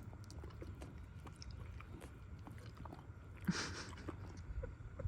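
Donkey chewing a rice cracker: irregular small crisp crunches, with a short breathy hiss about three and a half seconds in.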